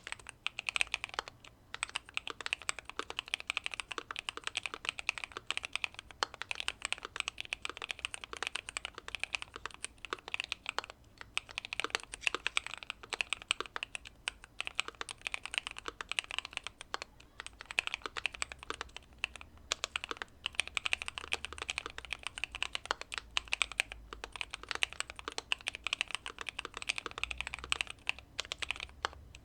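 Fast, continuous typing on a Keychron Q2 mechanical keyboard with factory-lubed Pearl Lemon switches, tape-modded and with case foam, its keystrokes running together with a few short pauses.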